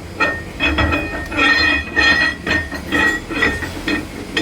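Steel axle shaft and differential gears clinking and knocking together as the shaft is worked into the housing onto the side gear. There are about two or three short knocks a second, and each rings briefly with a metallic tone.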